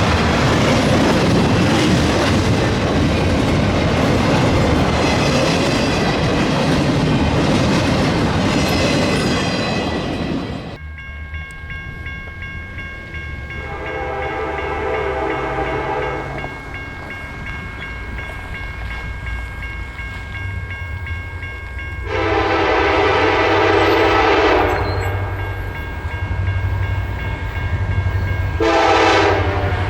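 Freight train rolling past, its wheels clattering over the rail joints, until a sudden cut about ten seconds in. Then a diesel locomotive's air horn sounds two long blasts and starts a third near the end, a grade-crossing signal, over steady high tones.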